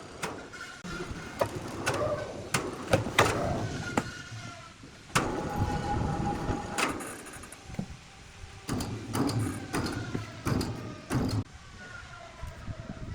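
Heavy machinery running with a faint steady hum, broken by repeated knocks and clanks and a short held whine about five seconds in.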